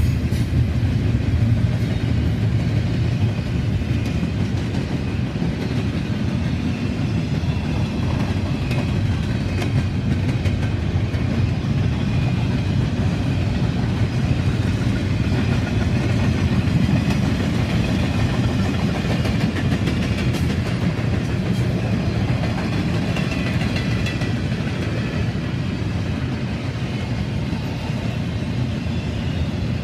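Freight cars of a Norfolk Southern intermodal train rolling steadily past, double-stack container cars among them, making a continuous rumble of steel wheels on rail.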